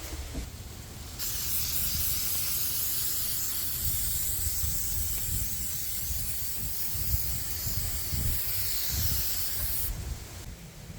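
Aerosol spray can spraying in one long continuous hiss of about eight and a half seconds, starting about a second in and cutting off sharply near the end.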